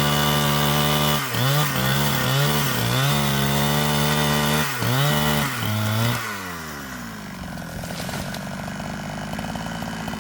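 Two-stroke chainsaw running at full throttle, its pitch dipping and recovering several times as it bogs under load in the wood, then dropping to a rough idle about six seconds in.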